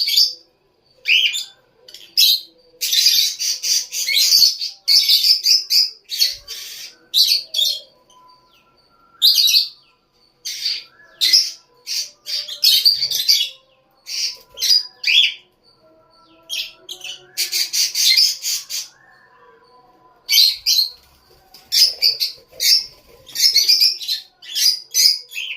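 Lovebirds chirping: shrill, high-pitched calls in rapid bouts, each lasting a second or two, broken by short pauses.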